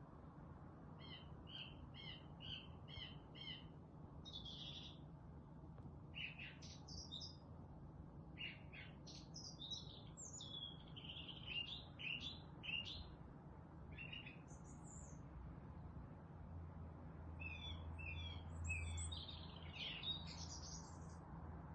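Wild songbirds chirping and singing: a quick run of about six repeated notes near the start, then varied high chirps, short trills and whistled phrases, with a busy cluster of notes near the end. A faint steady low hum lies underneath.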